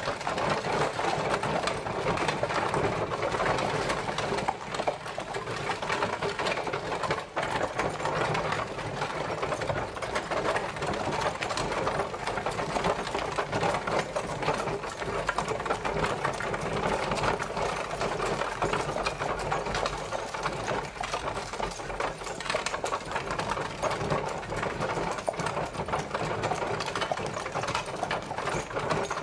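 Horse-drawn carriage travelling: a continuous, rapid rattle and clatter of the wheels and coachwork.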